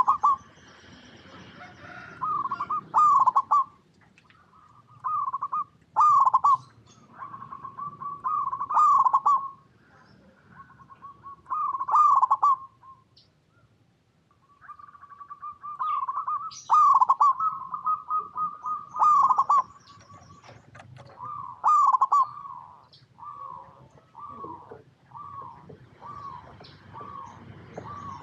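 Zebra doves singing: repeated phrases of rapid, stuttering coos around a middle pitch, a few seconds apart, with a run of evenly spaced single notes near the end.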